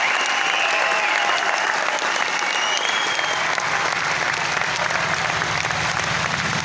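Concert audience applauding and cheering after a song, with a few high whistles in the first few seconds.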